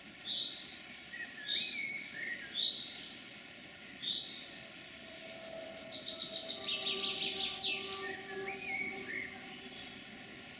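Songbirds singing: short high chirps about once a second, a wavering whistled phrase heard twice, and a rapid trill in the middle.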